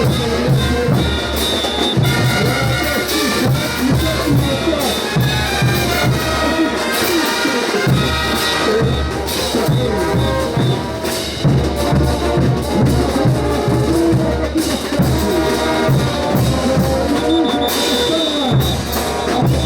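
Bolivian brass band playing a ch'uta dance tune: trumpets and trombones over a steady drum beat.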